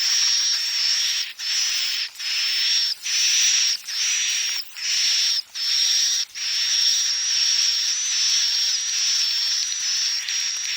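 Swiftlet lure call recording: dense, buzzy high-pitched chirring of edible-nest swiftlets with a thin steady whistle over it, broken by short gaps about every 0.8 s for the first half, then running on without breaks.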